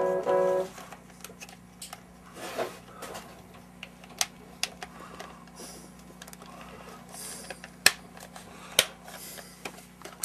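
Scattered sharp clicks and taps of work on the bench over a steady low hum, after a brief chord of held tones that stops under a second in. The two loudest clicks come near the end.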